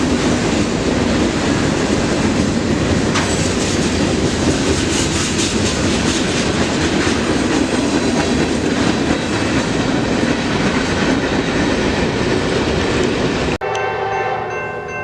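A train rolling past, its wheels running on the rails in a loud, steady rush of noise. Near the end it cuts off suddenly, giving way to a steady chord of several tones.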